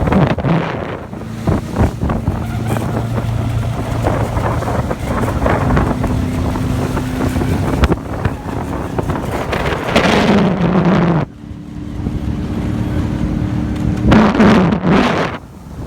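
Pro Boat Miss Geico 29 V3 RC speedboat's electric motor running on a 6S battery, a distant steady whine that steps up in pitch a few times as it goes toward full throttle. Wind buffets the microphone in loud gusts about ten and fourteen seconds in.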